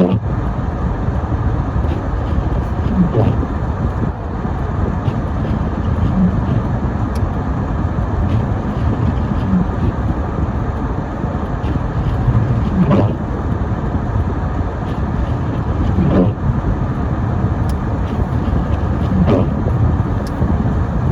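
Car driving on a snow-covered road: steady road and tyre noise. A short gliding sound recurs about every three seconds.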